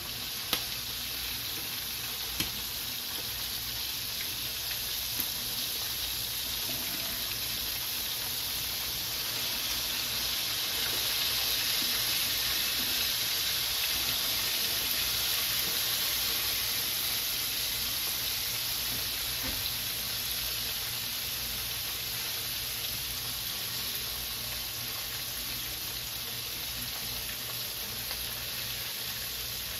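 Pork spare ribs sizzling steadily as they fry in grease in a skillet, with a few light clicks in the first few seconds.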